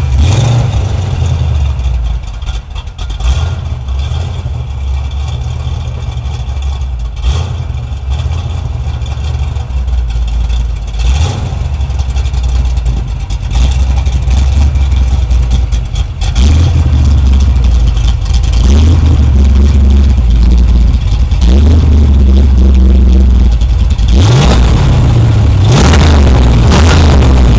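1970 Chevrolet Camaro engine running through headers, straight pipes and left and right mufflers: a deep, steady idle rumble that is revved at the start, grows louder about two-thirds of the way through, and is revved again near the end.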